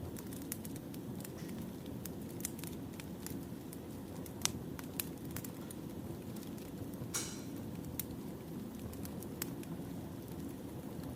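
Wood fire burning: a steady low rumble of flames with scattered sharp crackles and pops, and a short hiss a little past halfway.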